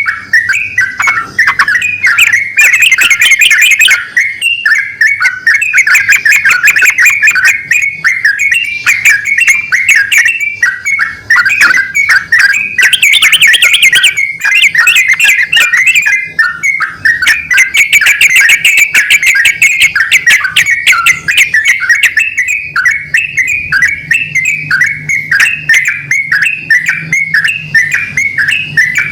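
Yellow-vented bulbuls, male and female, singing back and forth in loud, near-continuous bubbling phrases of rapid notes, overlapping one another almost without pause.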